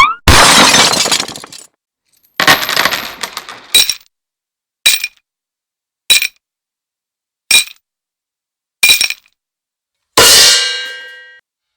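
A run of impact sound effects. A noisy crash comes first, then five short, sharp clanging strikes about a second and a quarter apart, each with a brief ring. Near the end comes a ringing crash that slowly dies away.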